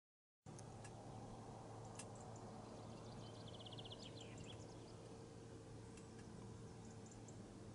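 Faint outdoor ambience with a steady low hum and distant songbirds: a quick rapid trill that falls away about three to four seconds in, and a few short chirps and ticks later on. The sound begins after a brief moment of dead silence.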